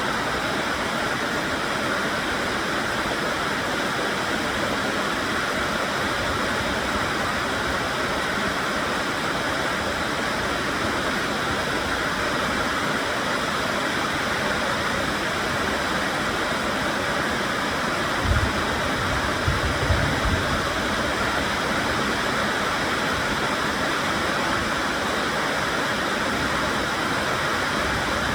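Heavy, steady rainfall, a dense even hiss. A few brief low thumps come about two-thirds of the way through.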